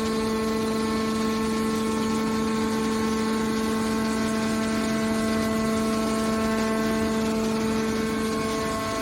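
Hydraulic scrap baler running under load: a steady, even whine with a clear pitch and overtones, with no change in pitch or loudness.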